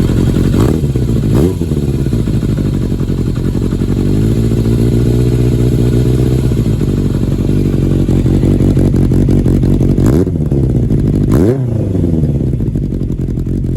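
Kawasaki Zephyr 400's air-cooled inline-four through an M-TEC Chukyo monaka aftermarket muffler, idling with sharp throttle blips: two quick revs near the start, a longer held rise in revs from about four to six and a half seconds in, and two more quick revs later on.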